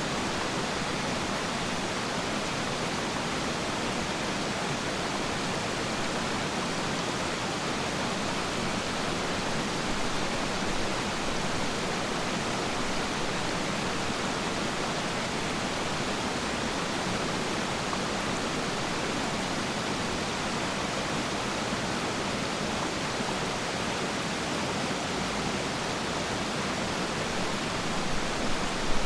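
Waterfall rushing steadily, an even hiss of falling water, with a brief louder surge near the end.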